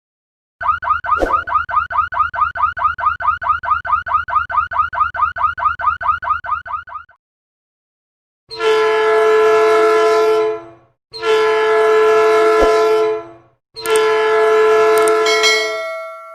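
An electronic alarm-style tone rising over and over, about six sweeps a second, for roughly six seconds. Then three long, steady horn blasts of about two seconds each.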